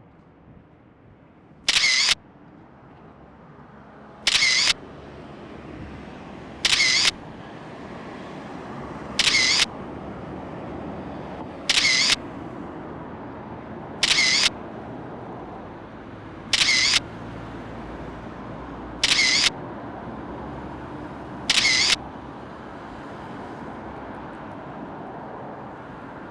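Camera shutter click-and-wind sound, repeated nine times at an even pace of about one every two and a half seconds, each one short and loud. Under it runs a steady background of road traffic that slowly grows louder.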